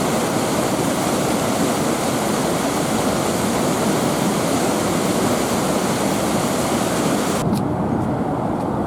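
Loud, steady rush of a small waterfall: fast running water pouring over the falls. Near the end the higher hiss suddenly falls away, leaving a duller rush.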